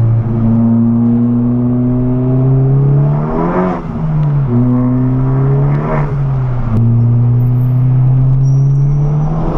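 Turbocharged Honda Civic Type R engine accelerating through the gears, its note rising steadily in each gear. Two upshifts break it, about a third and two-thirds of the way in, each with a short rush of noise as the revs drop.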